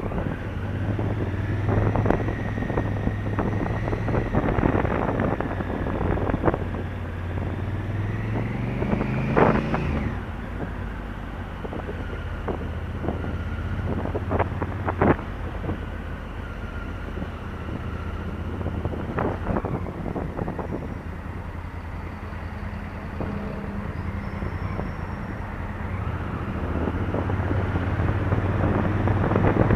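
Honda Africa Twin CRF1000L's parallel-twin engine running under way, with wind noise on the microphone. About eight seconds in the revs climb for a couple of seconds, then drop away.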